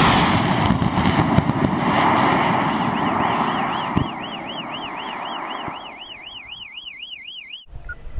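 Aerotech M1850 solid rocket motor burning at liftoff, a loud rushing roar that fades over several seconds as the rocket climbs away, then stops abruptly near the end. A warbling electronic siren-like tone sounds over it from about three seconds in.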